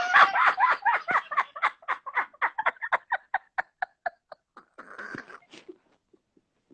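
A man laughing hard: a long run of quick laughs that starts loud and slows and fades over about four seconds, ending in a short breathy sound.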